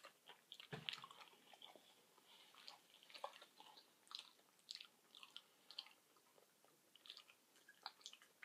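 Faint chewing of a sub sandwich: a scatter of soft, irregular mouth clicks, a few each second.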